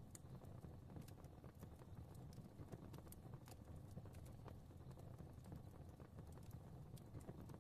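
Faint fire crackling: scattered small, irregular pops and snaps over a soft, steady low rumble of flames.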